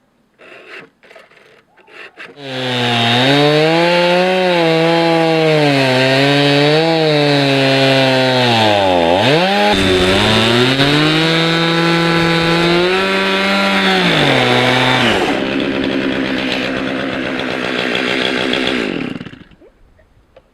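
Two-stroke chainsaw ripping a log in an Alaskan chainsaw mill. It runs under load for about twelve seconds, its pitch wavering and sagging hard once about halfway before picking back up. It then drops to a lower speed for a few seconds and cuts off. A few knocks come before it starts.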